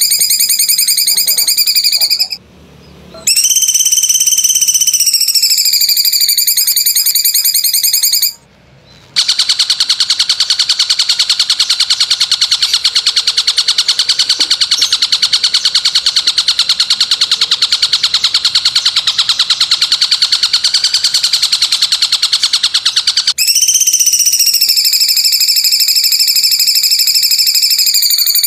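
Masteran song-training recording: a loud, rapid buzzing trill made of a stack of tones that glides up at each onset and then slowly falls, broken by two short pauses about two and eight seconds in. From about nine seconds it settles into a steadier, even buzz, and near the end the gliding trill returns.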